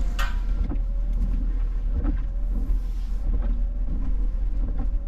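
Pickup truck engine running, heard from inside the cab as a steady low rumble, with scattered light knocks and clunks.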